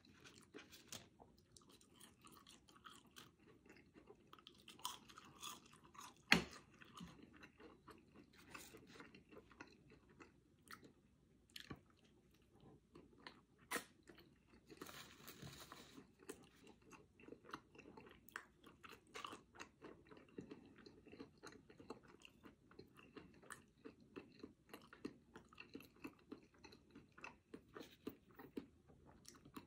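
Close-up chewing and crunching of a bacon cheeseburger and French fries, with many small wet mouth clicks. There is one sharp louder click about six seconds in and a brief rustling hiss around fifteen seconds in.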